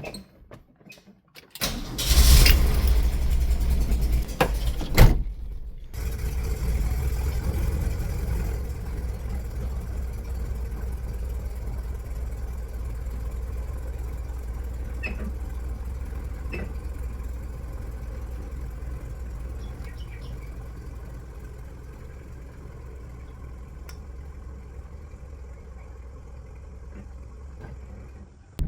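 Volkswagen Kombi campervan engine starting about two seconds in, briefly cutting out near five seconds, then running on at a steady idle.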